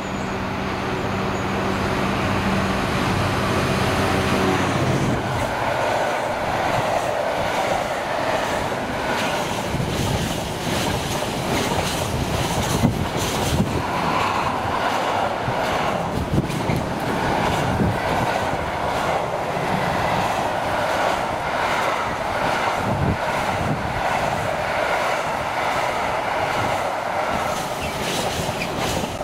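Freightliner Class 66 diesel locomotive's two-stroke V12 engine running as it approaches, fading after about five seconds as it passes. It is followed by a long rake of container wagons rolling past with a steady rumble and a rhythmic clatter of wheels over the rail joints.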